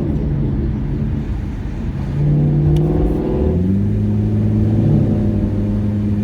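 Car engine and road noise while driving. About two seconds in the engine pulls harder with a slowly rising pitch, then drops to a lower, steady pitch just after three seconds, as at an upshift, and holds there.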